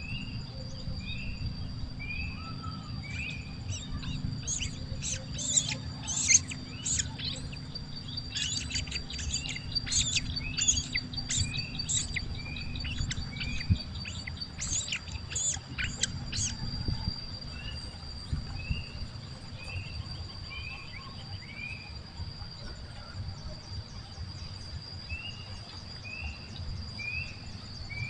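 Birds chirping: a short rising chirp repeated every second or so, with a dense run of sharp, high, rapid calls in the middle, over a steady high-pitched whine and a low rumble.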